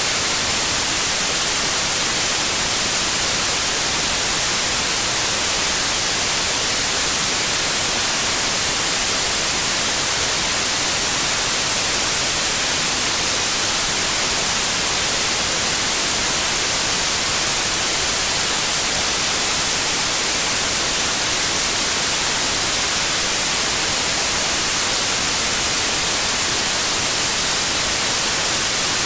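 Steady white noise: an even hiss with no changes, brightest in the high frequencies.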